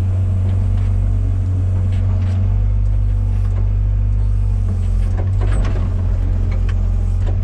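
Komatsu PC120-6 excavator's diesel engine running steadily under work, with a few short clanks about five to six seconds in.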